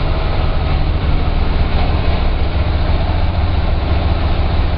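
DAF truck's diesel engine running steadily at low speed, an even, deep rumble heard from inside the cab.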